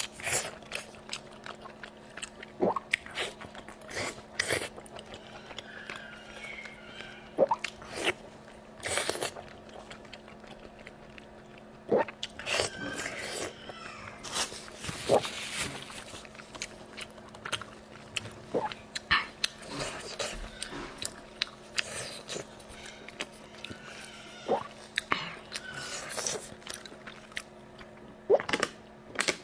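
Close-miked eating: irregular wet chewing, biting and lip smacks, with a faint steady hum underneath.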